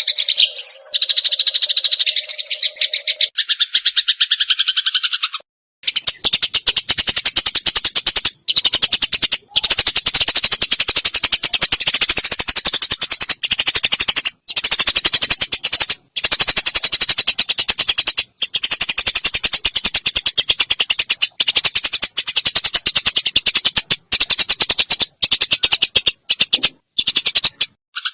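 Sparrows giving fast, harsh chattering calls, the aggressive chatter of sparrows fighting. A few chirps open it; after a short pause about six seconds in, a dense run of rapid ticking notes follows, broken by brief gaps every second or two.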